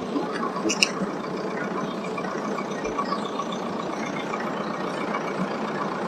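Old tractor engines running steadily, with a couple of brief clicks just under a second in.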